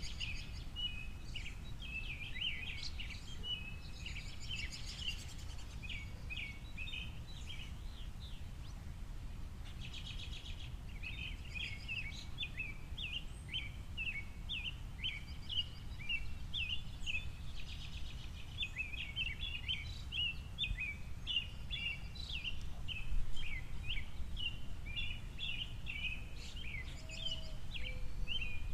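Small songbirds chirping rapidly and continuously, with a brief lull about a third of the way in, over a steady low rumble of outdoor background noise.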